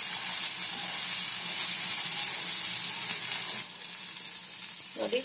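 Mutton pepper fry with onion and capsicum sizzling in a steel frying pan as it is stirred with a spoon. The sizzle drops quieter about three and a half seconds in.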